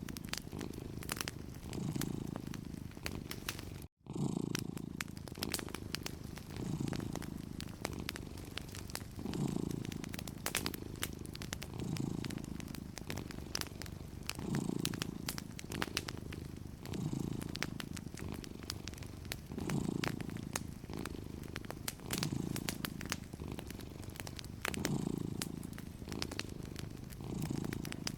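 A cat purring steadily, each breath swelling and fading in a slow cycle about every two and a half seconds, with a fireplace's fire crackling and popping in sharp little clicks throughout. The sound cuts out for a split second about four seconds in.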